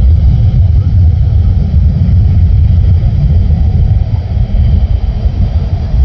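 Jet airliner engines rumbling: a loud, steady low rumble.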